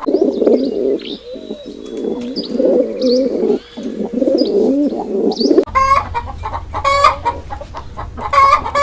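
A flock of birds calling all at once: many overlapping low, warbling coos with small high chirps above them. About six seconds in it cuts to a few louder, sharper repeated calls over a low hum.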